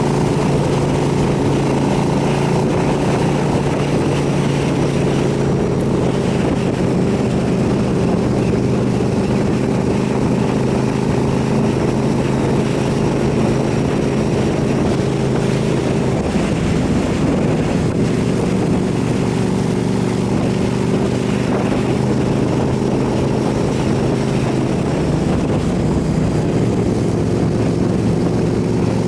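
KTM 990 SMR supermoto's V-twin engine running under way, heard from on the bike with wind rushing past. The engine note holds steady, then changes about sixteen seconds in with a gear or throttle change before settling again.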